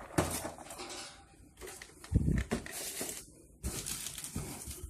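Handling noise from toy packaging being moved about: a few knocks and a low thump about two seconds in, with rustling between them.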